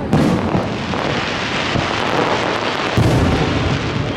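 Aerial fireworks shells bursting in quick succession: an unbroken rumble of booms, with sharp bangs just after the start and about three seconds in, and crackling between them.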